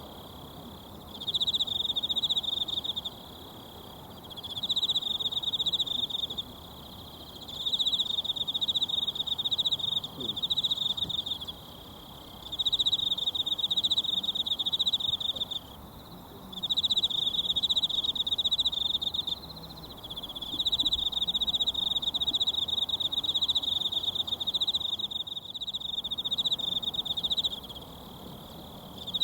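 An insect trilling loudly and high in repeated phrases of a few seconds each, with short pauses between, over the steady rush of a mountain stream.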